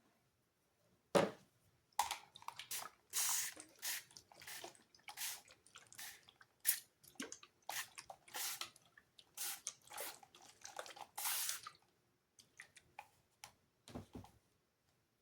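Paintbrush strokes, a run of short scrubbing and dabbing strokes with a sharp knock about a second in and a dull thump near the end.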